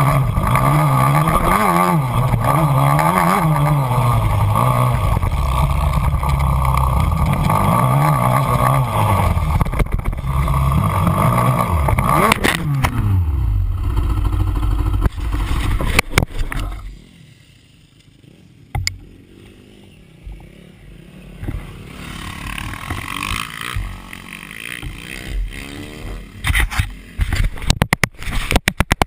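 An engine running with its pitch rising and falling repeatedly, then winding down and fading about halfway through; scattered clicks follow.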